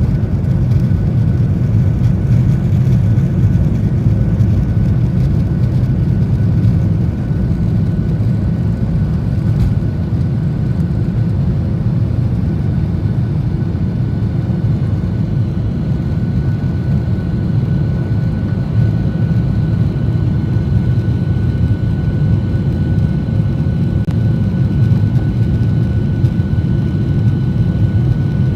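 Boeing 737-800 jet airliner climbing after takeoff, heard from inside the cabin: a steady, loud rumble of engines and airflow with a faint steady whine above it.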